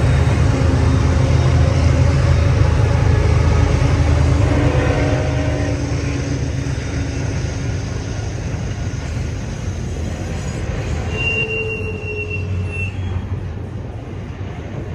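BNSF intermodal freight train rolling past, a heavy low rumble of the train that slowly fades, with a brief high-pitched wheel squeal about eleven seconds in.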